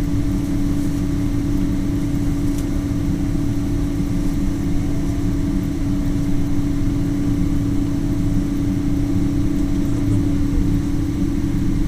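Boeing 777 jet engines running at a steady, unchanging drone with a constant low hum; a fainter higher tone stops about ten seconds in.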